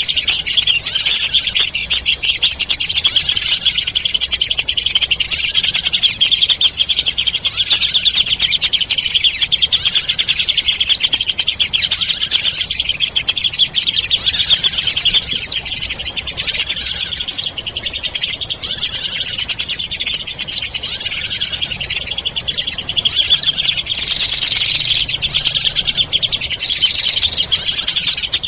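Dense, continuous high-pitched chirping and twittering of small birds, many rapid calls overlapping without a break: a bird-lure call recording played to attract wild birds.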